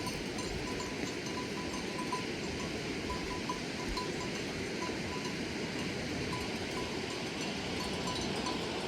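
Livestock bells clinking and ringing at irregular intervals over a steady background noise.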